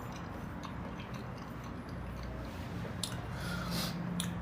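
A person chewing a mouthful of okra stew, with scattered small mouth clicks.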